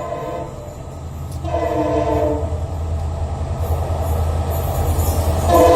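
An EMD diesel locomotive's multi-tone horn sounding in short blasts, one trailing off just after the start, another about a second and a half in, and a third starting near the end, over the train's low rumble that grows steadily louder as it approaches.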